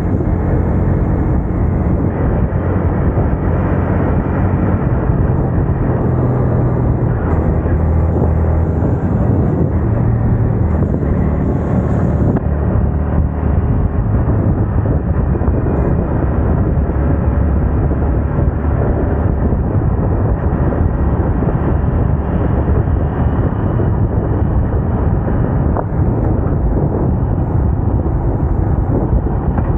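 Yamaha MT-15's 155 cc single-cylinder engine and exhaust running while the motorcycle is ridden, its pitch rising and falling with speed, mixed with wind noise on the microphone.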